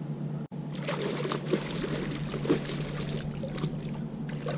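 Water splashing and trickling in uneven spurts, over a steady low hum.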